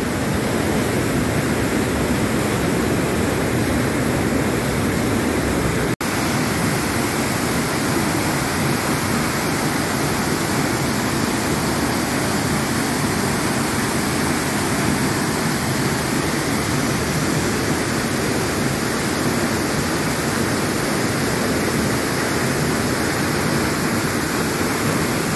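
Iguazu Falls waterfall, a loud steady rushing roar of falling water, briefly cut off about six seconds in.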